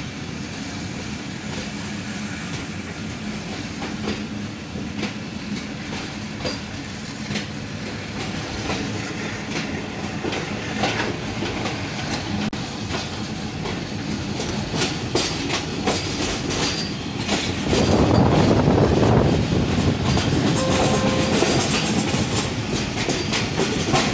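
Passenger train rolling slowly through a station, heard from inside a coach: a steady rumble with wheels clicking over rail joints and points. The rumble grows louder about three quarters of the way through.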